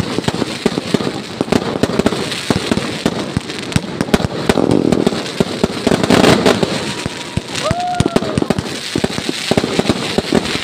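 Fireworks going off in rapid, continuous crackling and popping bangs, with a brief whistle about eight seconds in.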